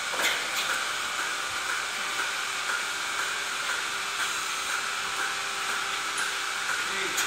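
Steady mechanical hiss with a faint steady hum and light, regular ticking running through it.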